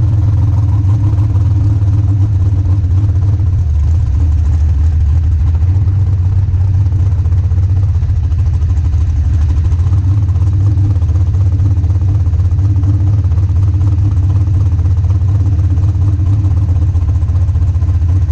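Dragster engine running steadily at low revs, heard close up from the cockpit, with no revving or change in pitch.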